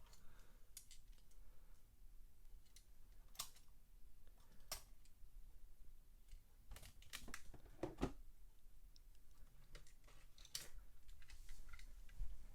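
Faint, scattered light clicks and taps, about seven or eight spread unevenly through the quiet, from small die-cast toy cars and plastic track parts being handled and set in place.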